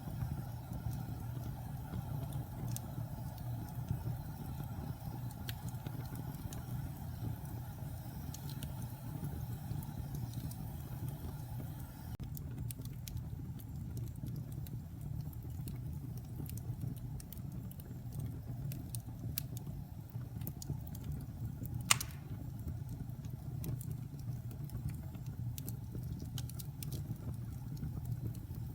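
Wood fire burning in a fireplace: a steady low rumble with scattered small crackles and one sharp, loud pop about three-quarters of the way through. A faint hiss drops away a little before the middle.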